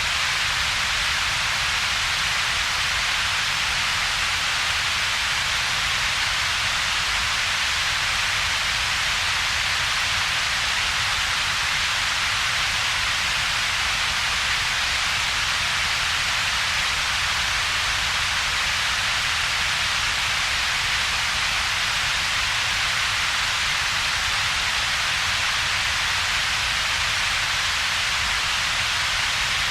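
Steady computer-generated double-peaked noise: an even hiss strongest around a few kilohertz, over a weaker low rumble, with a hollow gap between them. It does not change.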